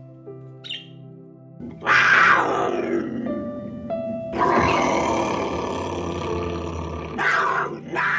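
Loud, rough animal calls over background music of held notes. One call starts about a second and a half in and lasts about a second and a half, a longer one runs from about four and a half to seven seconds in, and a short one follows.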